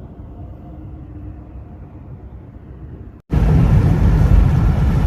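Blizzard wind noise, a steady muffled rumble, then about three seconds in it cuts abruptly to much louder wind buffeting the microphone.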